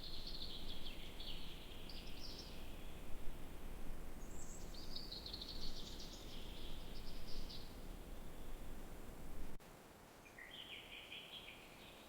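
A songbird singing three fast, chattering phrases, the last one shorter and lower, over a steady low outdoor rumble that cuts off abruptly near the end.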